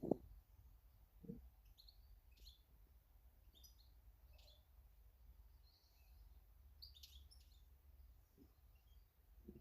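Small garden birds chirping faintly in short, scattered calls, with a sharp knock at the start and a few softer knocks later, over a steady low rumble.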